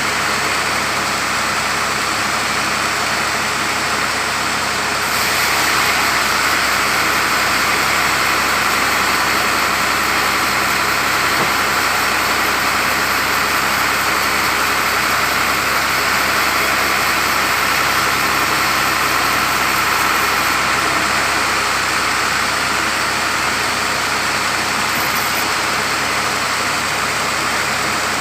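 Sawmill machinery running steadily while cutting mango wood, with a steady engine-like hum underneath. From about five seconds in to about twenty seconds in the sound grows louder and brighter, as the saw works through the log, then drops back to running on its own.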